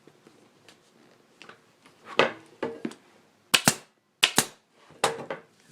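Staple gun firing staples through a motorcycle seat cover into the seat pan: a quick series of sharp shots in the second half, several in close pairs.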